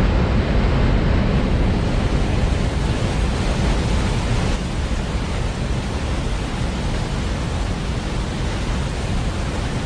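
Steady rush of a large waterfall, a dense even roar with wind buffeting the microphone.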